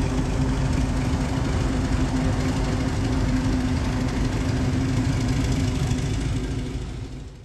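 Diesel locomotive engine idling, a steady low rumble with a constant hum, fading out near the end.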